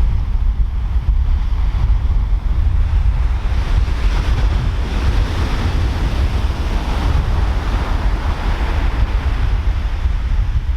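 Pacific Ocean surf: a wave breaks and washes in, its hiss swelling from about a third of the way in and fading near the end. Heavy wind buffets the microphone throughout.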